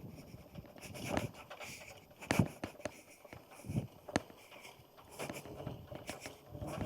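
Scattered light clicks and knocks of an electric unicycle rolling over a rough, rutted dirt trail, with two sharper knocks, about two and a half and four seconds in.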